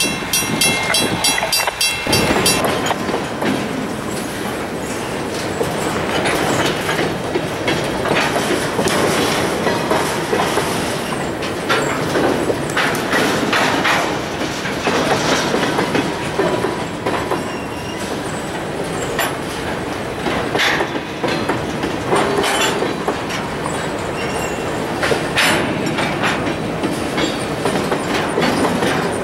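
Freight train's covered hopper cars rolling past close by, steel wheels clacking over the rail joints in an irregular run of knocks over a steady rumble. In the first two seconds a grade-crossing bell rings in a fast, even rhythm.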